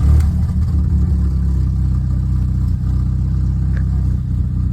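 Audi A4 engine just started, flaring briefly and then settling into a steady idle, after its unplugged VVT connector was found; the owner judges the misfire is still not fixed.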